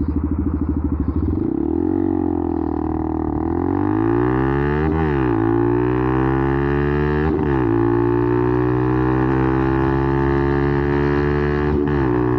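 Benelli TNT 125's single-cylinder engine, breathing through an aftermarket slip-on exhaust, idling with a lumpy pulse, then pulling away and revving up through the gears, with upshifts about five and seven and a half seconds in, before settling to a steady cruise.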